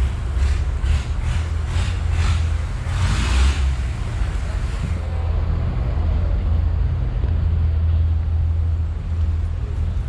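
A vehicle engine running with a steady low rumble, with a short hiss about three seconds in.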